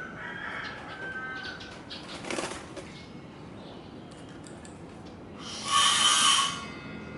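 Bird sounds around a caged zebra dove. Faint chirps come first, then a brief rustle about two and a half seconds in, and near the end a louder bird sound of about a second.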